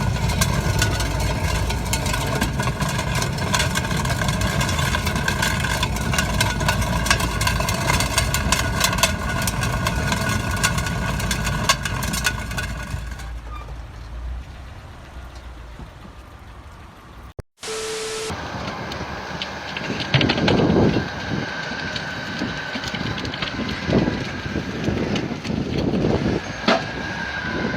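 A large vehicle engine running loud, with heavy rattling and clattering, dying down after about 13 seconds. After a cut, a steady whine and several heavy thumps.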